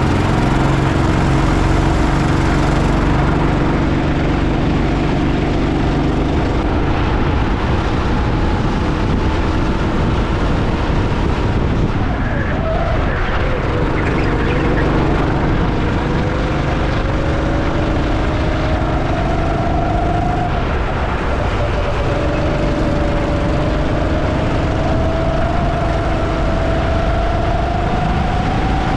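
Go-kart engine running on the track, its pitch climbing as it accelerates and dropping back before climbing again, over a heavy steady rush of noise.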